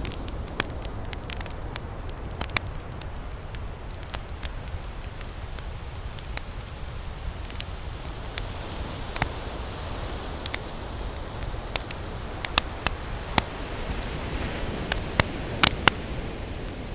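Wood campfire crackling: irregular sharp pops and snaps, a quick cluster of them near the end, over a steady low rumble.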